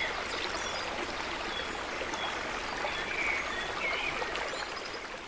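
Small waterfall's water rushing and splashing in a steady hiss, with a few faint high chirps over it; the sound fades out near the end.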